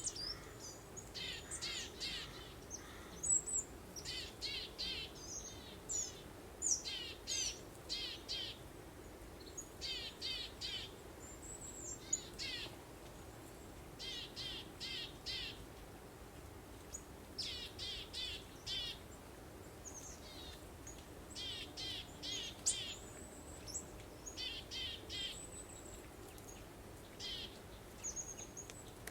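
Songbirds chirping in quick runs of three or four high notes, repeating every second or two, over a faint steady rush of breeze.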